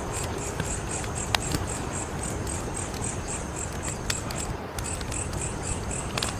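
Fire crackling: a steady hiss and low rumble with scattered sharp pops, the loudest about a second in. Behind it a high-pitched chirping pulses about four times a second.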